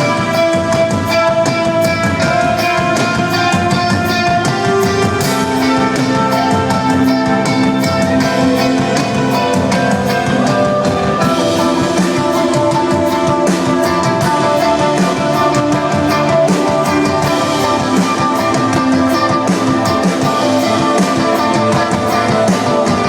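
Instrumental post-rock band playing: layered electric guitars hold sustained melodic lines over a steady drum beat.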